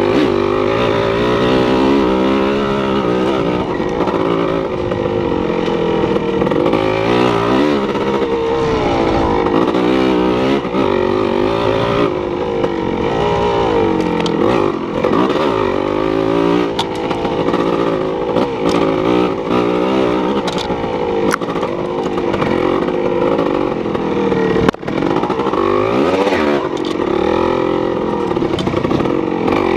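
Engine running and revving up and down, its pitch rising and falling every few seconds, with a brief drop about 25 seconds in.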